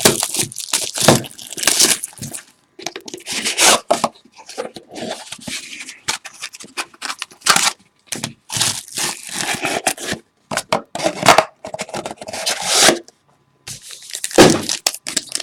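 A sealed box of baseball cards being opened by hand: irregular tearing and crinkling of its plastic wrap and packaging, in uneven bursts with a short pause near the end.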